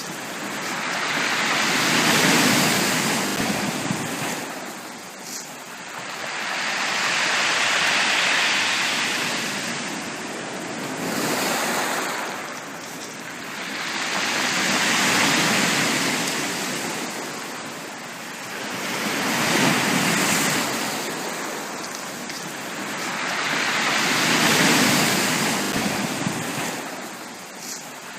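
Ocean waves washing onto a beach. The surf swells and ebbs about five times, one wave every five to seven seconds.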